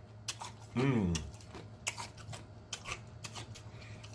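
Close-miked chewing and lip-smacking: a string of sharp wet mouth clicks, with one short falling "mmm" hum of enjoyment about a second in.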